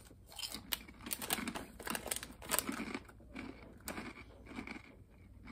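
A person chewing a crispy fried chicken-skin crackling, with irregular small crunches and crackles close to the mouth.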